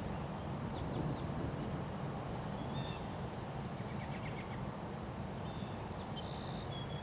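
Wind blowing against the microphone as a steady low rush, with several birds chirping and whistling in short calls over it throughout.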